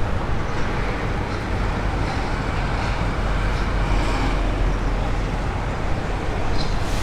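Steady, even rumble of aircraft engines, heaviest in the low end.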